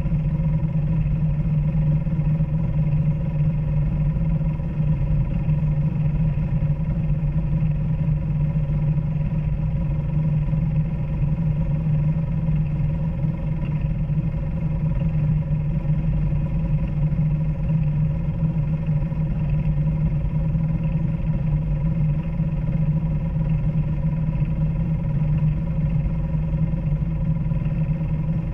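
Off-road vehicle engine running at a steady speed while driving along a trail: a constant, even drone with no revving or pauses.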